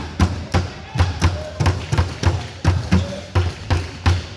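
A steady run of thuds, about three a second, over a low hum, with faint voices behind.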